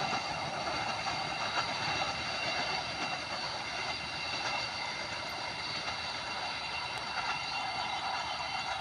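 Train rolling past on the track: a steady running noise with a set of steady high-pitched tones over it.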